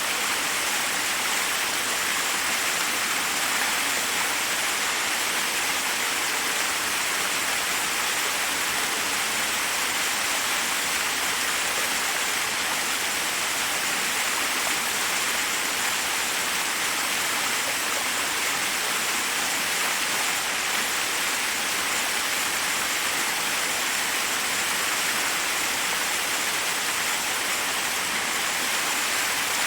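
Forest waterfall: water falling over rocks in a steady, unbroken rush that is mostly high hiss with little low rumble.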